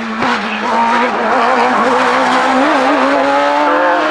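Hillclimb racing car engine running at high revs as the car accelerates out of a bend. Its pitch wavers, then climbs slowly through the last couple of seconds.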